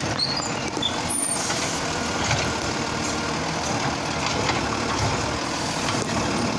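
Garbage truck engine running steadily close by.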